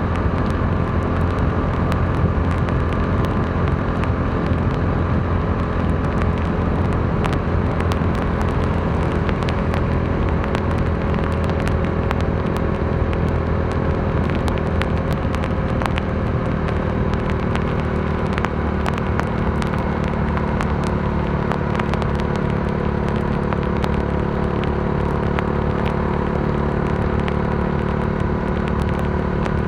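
Modenas Dominar D400's single-cylinder engine running at a steady cruise, with wind and road noise. Many sharp ticks are scattered throughout, as raindrops strike the rider and the microphone. The engine eases slightly lower past the middle.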